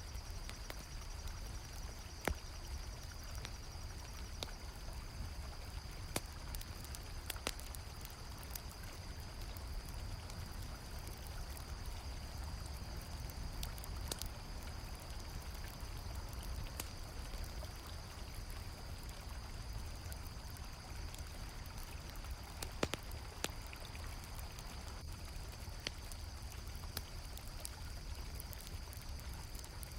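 Steady rush of a flowing river, with a campfire crackling in scattered sharp pops and crickets chirping in a continuous high-pitched drone.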